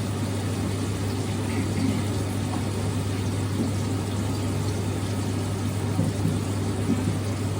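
A steady machine hum with a constant low drone and an even rush over it, unchanging throughout.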